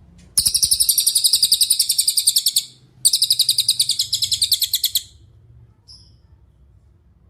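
Cililin songbird giving two rapid, high-pitched trills of about two seconds each with a brief pause between them, then one faint short chirp. A faint low rumble sits underneath.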